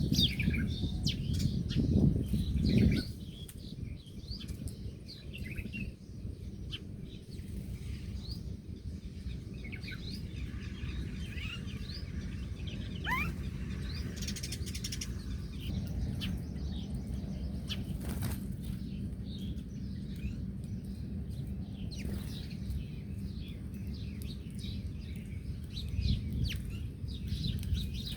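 Small birds chirping and twittering in many short high calls, with one rising whistle near the middle. Loud low fluttering noise fills the first three seconds.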